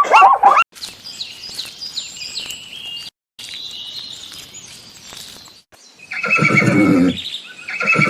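A horse whinnying loudly about six seconds in, one long wavering call, with a second whinny beginning near the end. Before it come fainter high-pitched squeaky chirps.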